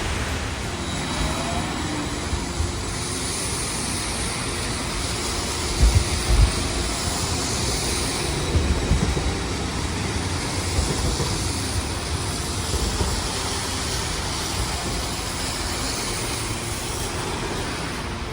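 A streetcar running along a rain-wet street amid road traffic, with a steady hiss of wheels and tyres on the wet surface. There are a few low thumps about six and nine seconds in.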